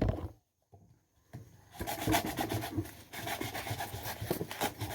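Green corn husks rustling and tearing as they are pulled off the ears and handled, a dense dry scraping with small crackles that starts about a second and a half in.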